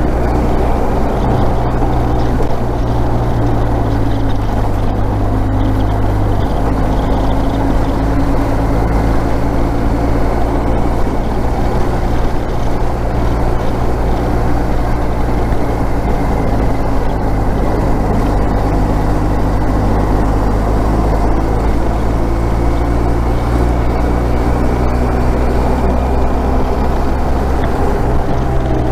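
Motorcycle engine running at a steady cruise with wind and road noise, its pitch drifting slowly up and down with speed.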